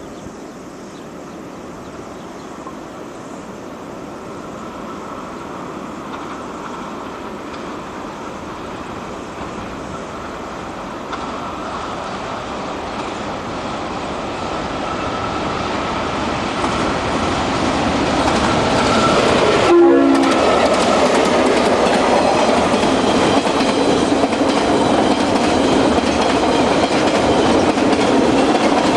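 Diesel-hauled freight train approaching and passing, growing steadily louder over about twenty seconds. A short horn note sounds about two-thirds of the way in, then the wagons pass close by with steady wheel-on-rail clatter.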